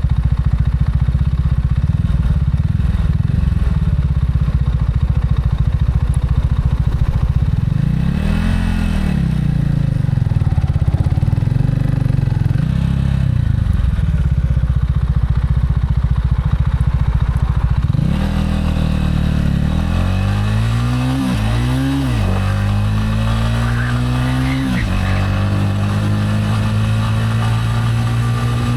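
Gilera AC4 motorcycle engine ticking over steady at first, then revved up and back down twice. About two-thirds of the way in it pulls away, its pitch climbing and dropping sharply at each of three upshifts, then settles into a steady cruise.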